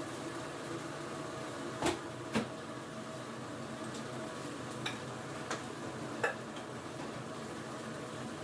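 A steady mechanical hum, with five light clicks and knocks, the two loudest about two seconds in.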